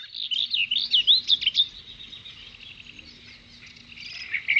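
Songbirds singing: quick whistled chirps and trills, busiest in the first second and a half, thinner in the middle, and picking up again near the end.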